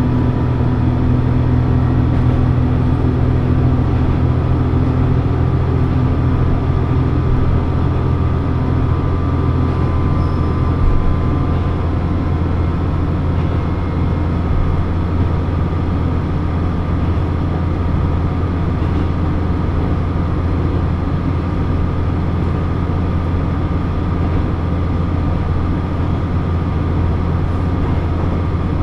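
Diesel railcar running along the line, heard from inside the car: a steady engine drone over low rail rumble. The engine's hum changes about twelve seconds in, leaving mostly the steady low rumble.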